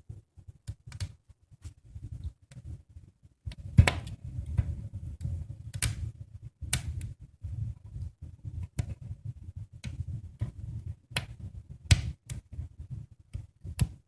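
Wood fire crackling in a fireplace: irregular sharp pops and snaps over a low rumble, the loudest pop about four seconds in.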